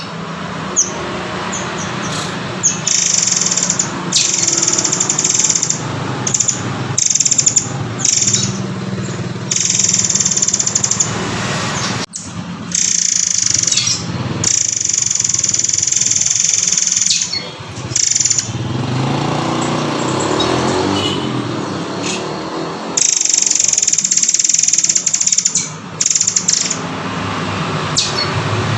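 Recorded song of the murai air (murai kopi) bird: long runs of high, fast chirping and trills, repeated with short pauses, over a steady low background hum.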